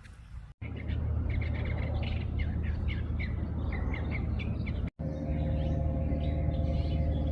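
Scrub jay giving a rapid series of short, harsh downward-sliding calls, several a second, over a steady low rumble. The sound drops out abruptly twice.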